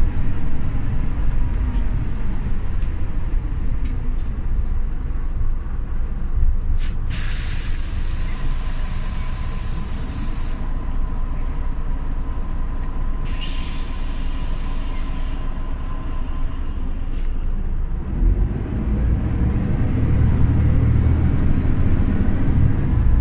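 Scania OmniLink city bus stationary with its engine running low, letting out two loud hisses of compressed air, one of about three seconds starting seven seconds in and a shorter one about thirteen seconds in. Near the end the engine note rises as the bus pulls away.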